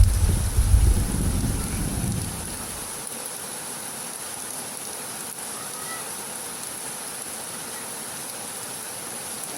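Heavy rain falling steadily, with the tail of a low thunder rumble dying away over the first two seconds.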